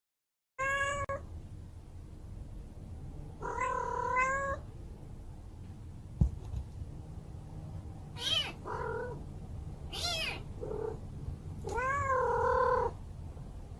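Domestic cat meowing repeatedly, about five calls a few seconds apart, the last one longer and drawn out. A single sharp click about six seconds in.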